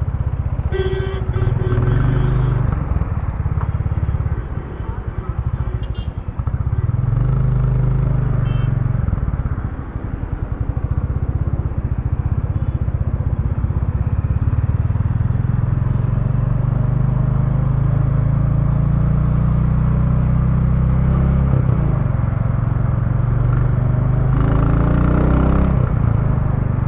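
Royal Enfield Bullet 350's single-cylinder engine running through its stock exhaust while riding, the note rising under acceleration and dropping off at gear changes or when the throttle is closed. About halfway through there is a long steady climb in revs, then the note drops and climbs again.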